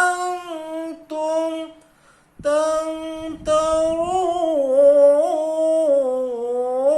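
Quran recitation chanted in a slow melodic style: long drawn-out notes on the words 'thumma antum tamtarun', with a short breath break about two seconds in.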